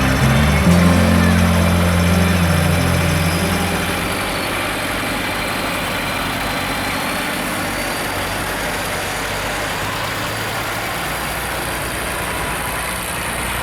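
Tractor engines idling and running steadily, with music in the first few seconds that then drops away.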